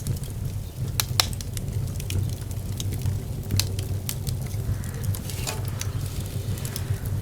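Wood fire in a fireplace crackling, with scattered sharp pops, a loud one just over a second in, over a low steady rumble of the flames.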